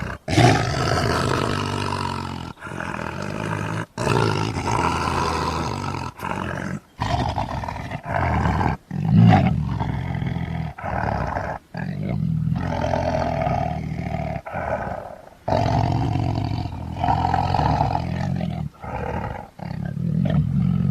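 Big-cat roars and snarls from tiger and sabertooth-cat sound-effect recordings, cut into well over a dozen separate calls. The calls play back to back with abrupt short gaps between them, each with a deep rumble underneath. The loudest roars come just after the start and about nine seconds in.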